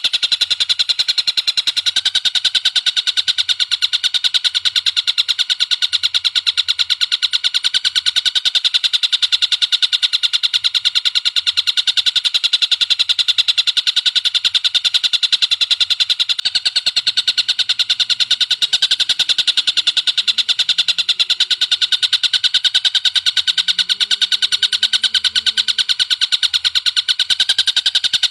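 Bird calls from a songbird-training recording: one short, sharp note repeated very rapidly and evenly in an unbroken trill.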